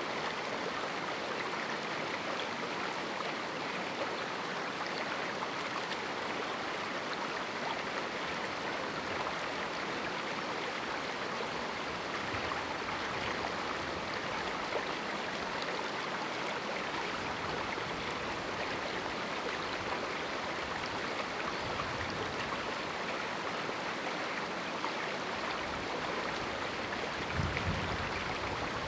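A small mountain river running steadily through a rocky canyon, a continuous even rush of water. There is a brief low rumble near the end.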